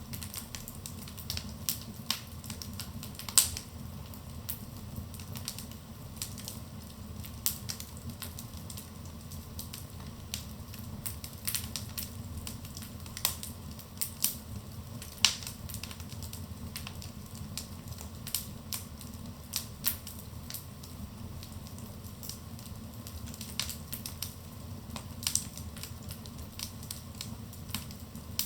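Wood fire burning in a fireplace, crackling with irregular sharp pops and snaps over a steady low rumble of the flames. The loudest pop comes about three seconds in, and another strong one near the middle.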